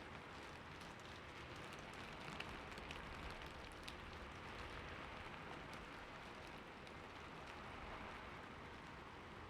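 Steady rain falling on a roof, an even patter with scattered sharper drops.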